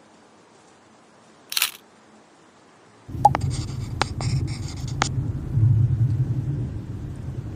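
A short rustle, then about three seconds in a machine starts up with a steady low hum, with a few sharp clicks and a brief hiss as it begins.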